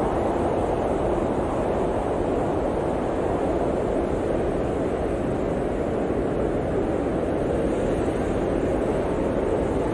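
Blizzard wind blowing steadily, a dense low rushing noise with no gusts or breaks.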